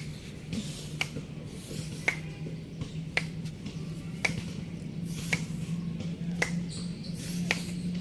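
Sharp clicks at a steady pace of about one a second, over a steady low hum.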